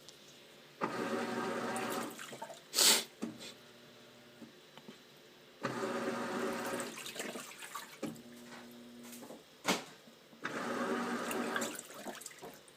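Sharp ES-TG5KC washing machine running its wash with a faulty motor: three bursts of water churning about every four and a half seconds, with a steady motor hum between them and two sharp clunks, one after each of the first two bursts.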